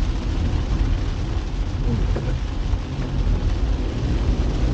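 Car driving in the rain, heard from inside the cabin: a steady low engine and road rumble under an even hiss of rain and wet tyres.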